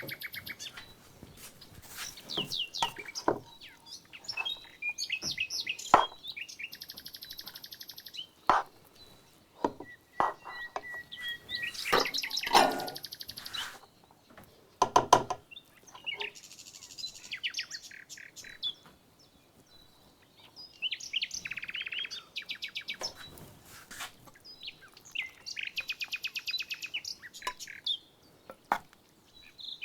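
Songbirds chirping in bursts of fast trills a few seconds long, with scattered sharp clicks and knocks between them.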